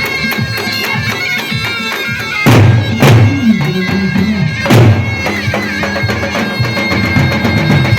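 Zurna, the shrill double-reed Turkish shawm, playing a melody over a davul bass drum beating a halay dance rhythm, with heavy drum strikes about two and a half, three and five seconds in.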